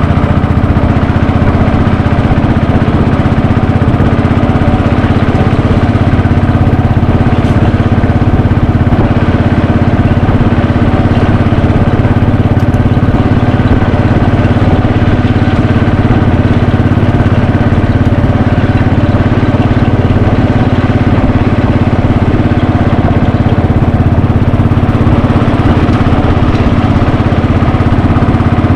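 Royal Enfield Bullet 500's single-cylinder engine running steadily under way, its exhaust note holding a fairly constant pitch with small rises and dips, over a hiss of wind and road noise.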